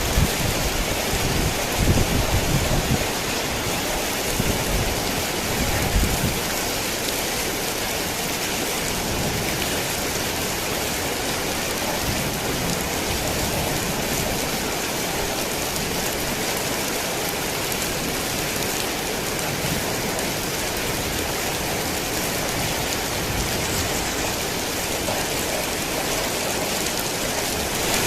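Heavy rain falling steadily, with low rumbles of thunder in the first few seconds.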